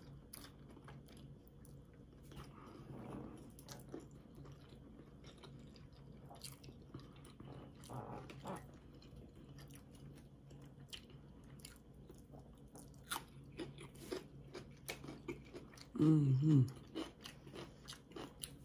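Close-up mouth sounds of someone eating a vegan sandwich with cucumbers: biting and chewing with crunchy, wet clicks throughout. A short hummed "mm" of enjoyment comes about two seconds before the end.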